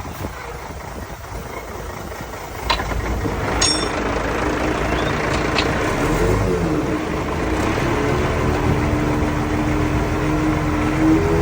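Heavy diesel engine of earthmoving machinery running, its pitch climbing slowly over the second half as it revs up. A few brief sharp clinks sound about three seconds in.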